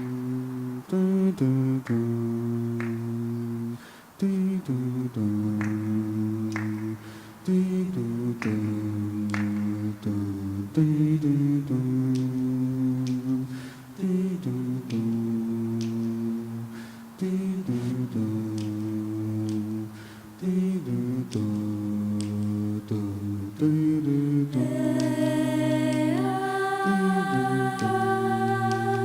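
An a cappella vocal group humming sustained chords that change every second or two, with sharp clicks like finger snaps keeping time. About 25 seconds in, a higher solo voice enters and holds long notes over the chords.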